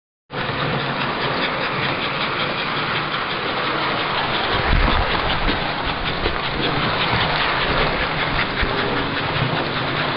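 American Flyer S-gauge model train running on its track: a steady running noise from the motor and wheels, with fine rapid clicking. It starts abruptly just after the beginning.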